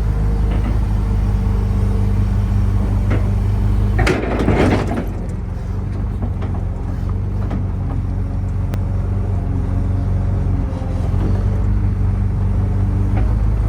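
Sumitomo excavator's diesel engine running steadily while the hydraulic arm is worked, freshly refilled with hydraulic oil after a burst hose was replaced. About four seconds in there is a brief loud hissing rush; the engine note then drops a little and picks up again a few seconds before the end.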